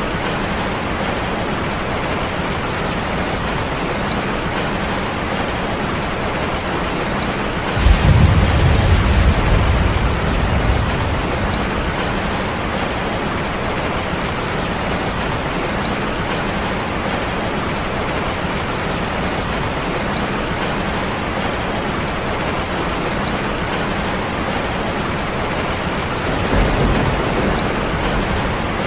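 Steady rain, with a rumble of thunder that breaks in suddenly about eight seconds in and fades over a few seconds, and a softer rumble near the end.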